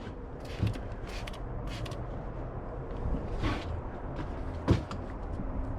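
Trigger spray bottle of vinyl and rubber protectant spraying onto an acrylic boat windshield in a series of short hissy squirts, one longer spray about three and a half seconds in.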